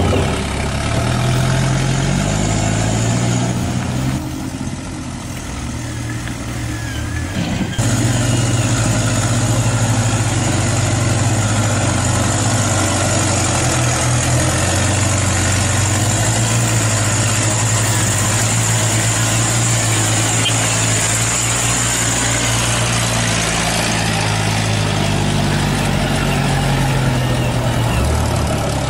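RC Fuso dump truck running with a diesel-style engine sound. The pitch rises in the first seconds and the sound goes quieter from about four to eight seconds in. It then runs steadily with a thin high whine over it, and revs up again near the end.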